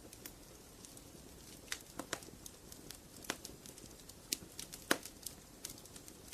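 Wood fire crackling in a fireplace: irregular sharp pops and snaps over a low steady rumble of burning, with the loudest pop about five seconds in.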